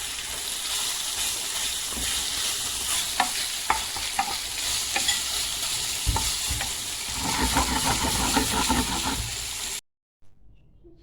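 Food sizzling in a frying pan while being stirred, with a utensil clicking and scraping against the pan. The sound cuts off abruptly near the end.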